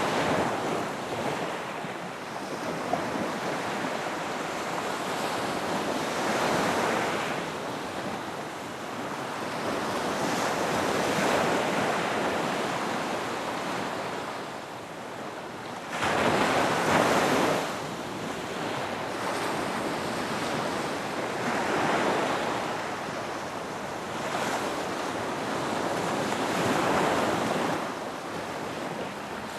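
Ocean waves breaking on a beach, the surf swelling and fading every few seconds, with one sharper, louder wave breaking about halfway through.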